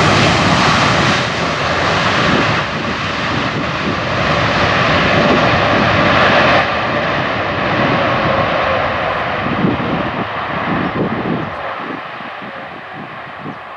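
Jet airliner's engines passing close, loud at first, then fading as the aircraft moves away, the high hiss dying off about halfway through.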